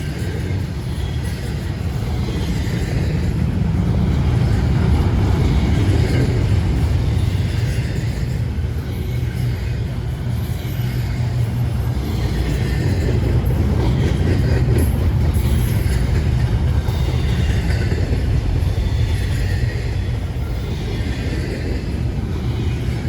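Freight train rolling past: a steady low rumble of wheels on rail that swells and eases in a slow rhythm as the cars go by.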